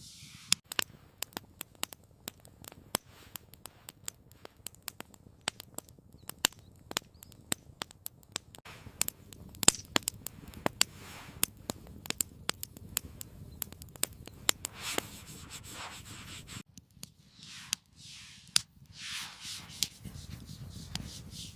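Wood fire crackling, with sharp irregular pops and snaps over a low rumble. About 17 seconds in, the crackling cuts off, and a few soft swishing sounds follow.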